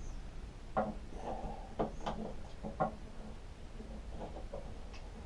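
A few light knocks and clinks of the metal mower handlebar and a bolt being handled while the bolt is fitted, with faint rattling in between.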